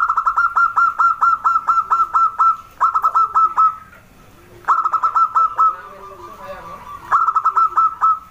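Zebra dove (perkutut) calling: rapid runs of short repeated notes, about five a second, in four bursts with brief pauses between them.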